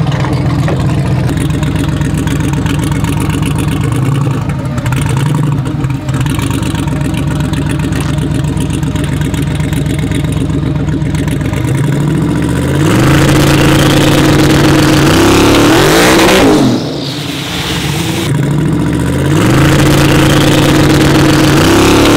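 Twin-turbo LS V8 truck engine idling at the line for about twelve seconds, then launching hard with its revs climbing. The sound drops away briefly near the end and the engine climbs again.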